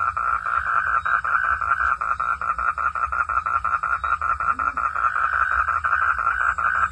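Frog calling in a fast, steady train of pulses, about seven a second, at a fairly high, even pitch.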